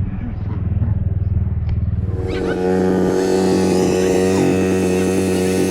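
Dirt bike engine running. About two seconds in, the sound switches to a steady, higher engine note.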